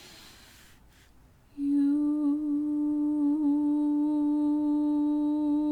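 A faint in-breath, then a single long chanted vocal tone held at one steady pitch from about a second and a half in: the purifying sound "you" intoned on the out-breath in pranayama.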